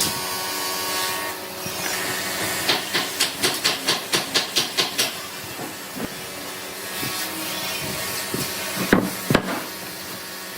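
A hand tool working wood in quick, even strokes, about five a second for a couple of seconds, over a steady hiss; two sharp knocks on wood come near the end.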